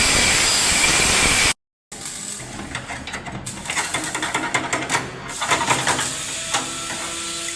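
Loud steady hiss that cuts off abruptly about a second and a half in. After a short break, quieter workshop tool noise follows: clicking and rattling of metal, with a steady hum coming in near the end.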